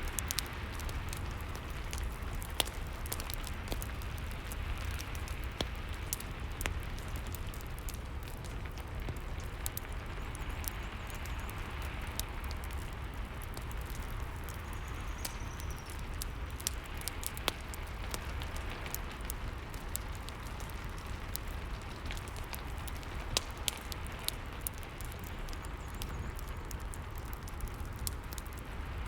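Steady rain mixed with a crackling fireplace: a constant hiss and low rumble, with frequent sharp crackles scattered throughout.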